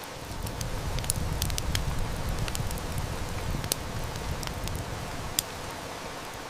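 Steady heavy rain hiss with sharp wood-fire crackles and snaps scattered through it, one louder snap a little after five seconds. A low rumble of distant thunder swells about half a second in and fades over the next few seconds.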